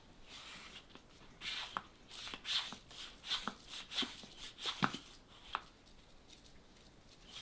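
Hand balloon pump being worked, short hissing puffs of air about once a second, with plastic clicks and knocks from the pump, fading out near the end.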